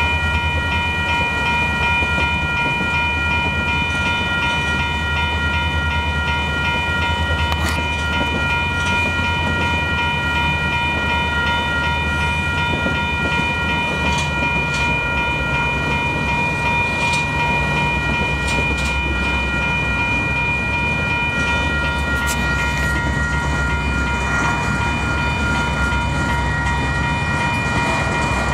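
Electronic railroad crossing bells (WCH Type 1) ringing steadily, over the low rumble of diesel locomotives moving slowly, with a few sharp metallic clanks from the train.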